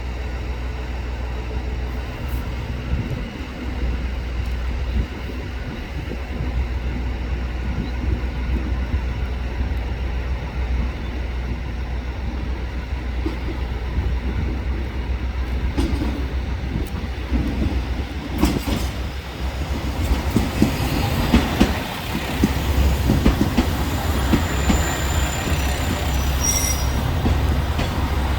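KiHa 281 series diesel railcar running on the rails: a steady low rumble with rail noise, a few sharp clicks about halfway through, and the noise growing louder and brighter over the last third.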